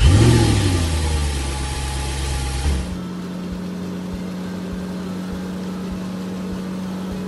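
A truck engine sound starts with a rising rev and runs loudly for about three seconds, then cuts off abruptly. It leaves a steady low hum with soft, irregular knocks.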